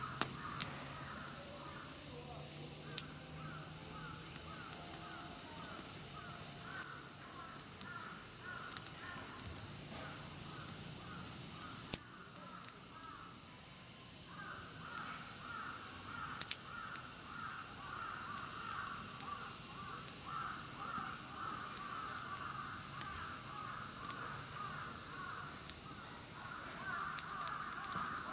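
Summer outdoor ambience: a steady high-pitched insect drone, with birds calling over and over in a fast repeated pattern in two long runs, the second starting about halfway through. There are a few faint crackles from the campfire.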